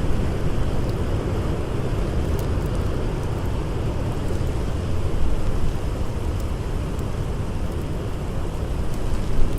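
Blizzard wind as a steady low rumbling rush, with faint, scattered crackles of a campfire.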